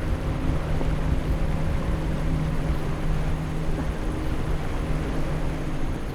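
A boat engine running steadily, a constant hum over a low rumble.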